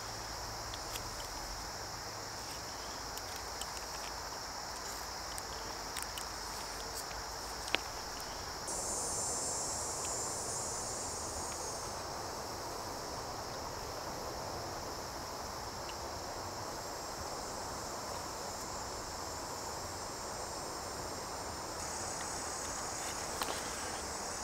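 Insects, crickets by their sound, chirping in a steady high-pitched chorus, with a second, higher-pitched insect joining for a few seconds about 9 s in and again near the end. Faint scattered clicks and one sharper click about 8 s in sit beneath it.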